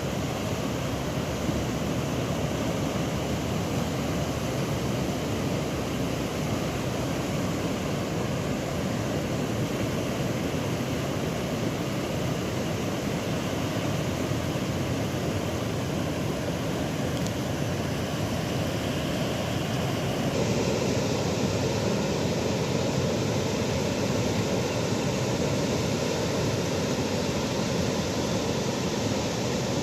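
Steady rushing of water, an even noise without rhythm, that changes abruptly to a fuller, brighter rush about twenty seconds in.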